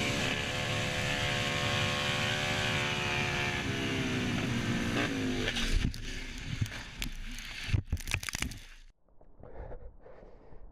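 Project 156 race motorcycle's engine running at steady revs, then dropping in pitch as it slows, about four seconds in. From about six seconds a run of sharp knocks and scrapes follows, and the sound cuts off to near quiet about nine seconds in.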